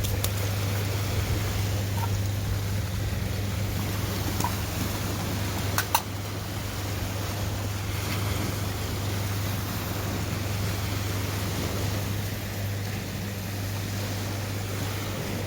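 Sea surf and wind with a steady low rumble, and a couple of short sharp clicks about six seconds in.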